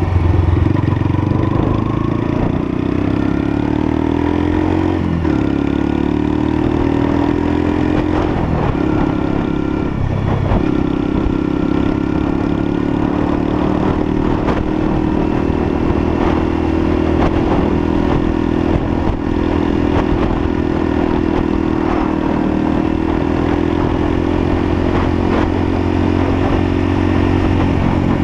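Lexmoto LSM 125 motorcycle's 125cc engine running under way. Its pitch shifts up and down in the first few seconds and breaks briefly about ten seconds in, then holds steady and climbs slowly.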